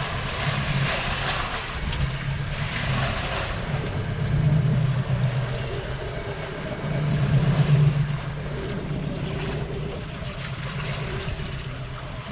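Wind buffeting the microphone and sea noise around a small fishing boat, over a steady low motor hum that swells louder twice.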